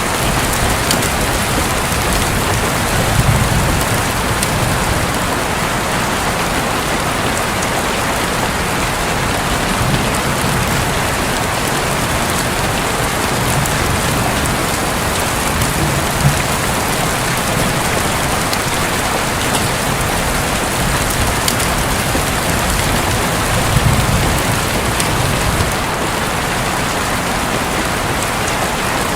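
Steady heavy rain drumming on a roof, with a few low rumbles of thunder now and then.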